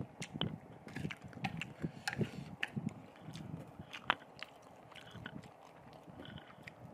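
A person chewing a mouthful of spicy fried instant noodles, with soft irregular mouth sounds and frequent short sharp clicks.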